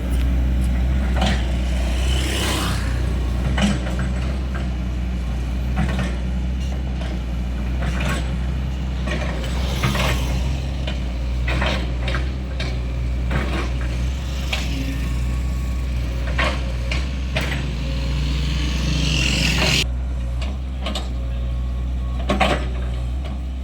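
Kobelco hydraulic excavator at work: a steady low diesel engine drone with frequent sharp knocks and clanks from the working machine, and a couple of hissing bursts, one a few seconds in and one near the end.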